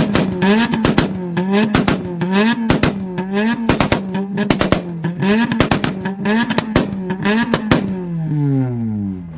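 Tuned car engine revved over and over, its pitch rising and dipping about every 0.8 s, with rapid exhaust pops and bangs crackling through each rev. About eight seconds in, the revs fall away.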